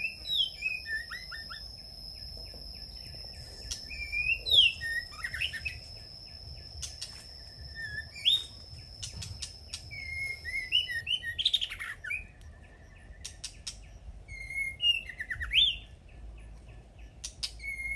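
Small songbirds chirping and calling again and again in short, quick, sweeping whistled notes, with a steady thin high tone underneath that stops about two-thirds of the way through.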